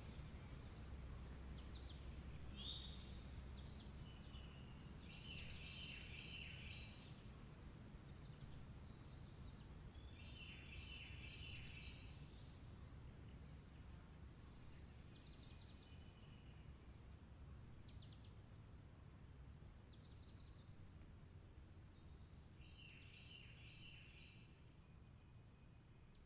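A bird faintly singing the same short phrase about every nine to ten seconds, chirps ending in a quick rising sweep, over a steady low hum.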